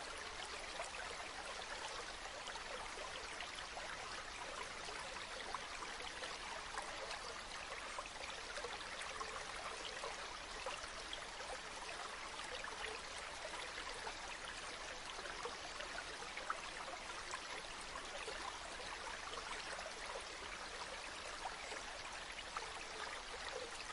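Waterfall: a steady rush of falling water, with many small splashes spattering through it.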